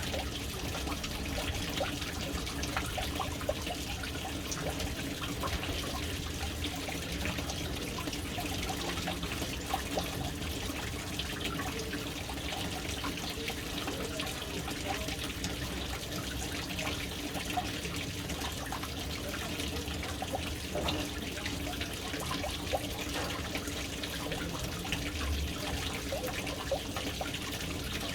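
Water falling steadily into a household water storage tank as it fills through its float valve, a continuous splashing trickle with a faint low hum underneath.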